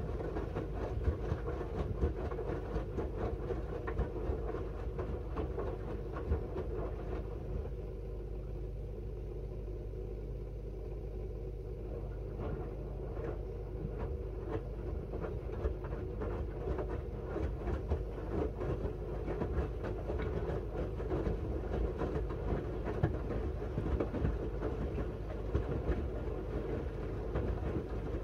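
Miele W1 front-loading washing machine in its wash phase: the drum turning, tumbling wet laundry in water, with a steady motor rumble and many small clicks and knocks. It eases off for a few seconds before the middle, as the drum pauses or changes direction, then picks up again.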